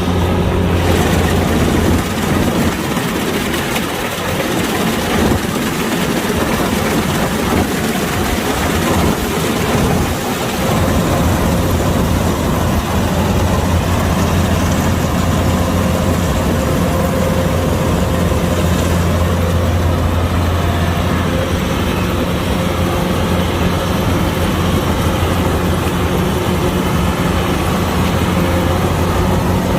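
Kubota DC-105X combine harvester running steadily, its diesel engine giving a constant low hum that grows stronger about ten seconds in.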